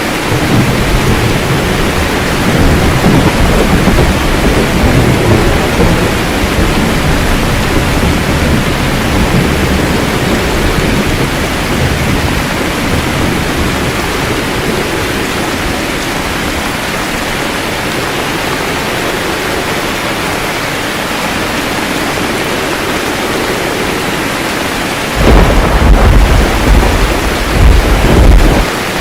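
Steady rain falling in a thunderstorm, with rolling thunder rumbling low in the first few seconds. About 25 seconds in a loud, close clap of thunder breaks and rumbles for several seconds.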